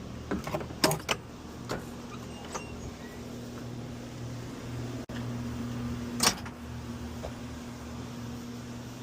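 Several sharp clicks and knocks, then a short motor hum that stops with a loud click a little after six seconds in, over a steady low hum.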